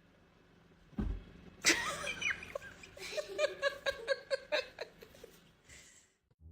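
A short thump about a second in, then a person laughing hard in a quick run of 'ha' pulses that tails off near the end.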